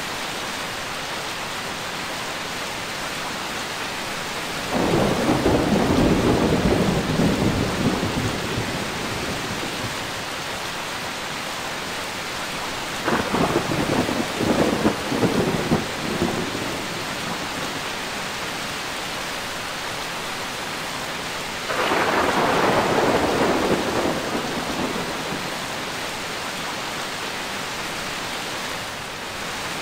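Steady rain with three rolls of thunder: one about five seconds in, a choppier one with several sharp cracks around thirteen seconds, and another around twenty-two seconds, each fading away over a few seconds.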